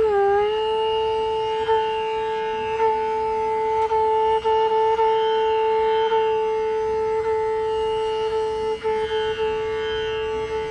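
Indian classical music in Raag Chandrakauns: a melody instrument slides up into one long, steady held note and sustains it, with light plucked strings sounding underneath.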